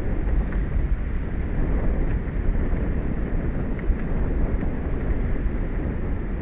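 Steady wind buffeting the microphone, a low rumbling noise, with a few faint short ticks.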